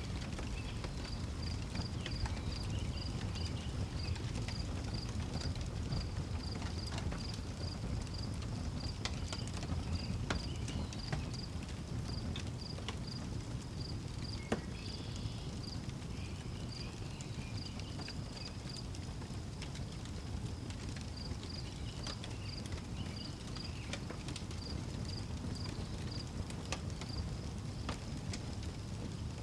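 Wood fire crackling with scattered sharp pops over a low steady rumble of the flames, one louder pop about halfway through. A cricket chirps steadily throughout, about two chirps a second.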